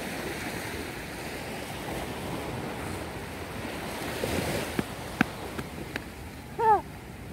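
Surf washing ashore as a steady rushing noise, with wind on the microphone. A few light clicks come in the middle, and a brief high-pitched voice sounds near the end.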